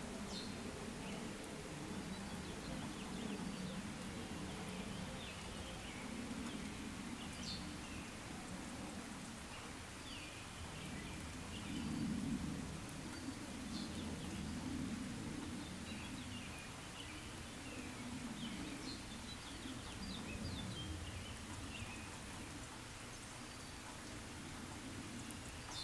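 Light rain ambience: a steady hiss of rain under a low rumble that swells and fades every few seconds, with scattered short high chirps over it.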